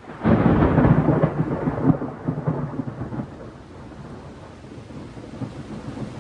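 Thunder from a nearby lightning strike: a sudden crack about a quarter second in, crackling and rumbling loudly for about three seconds, then dying away to a lower rumble over steady rain.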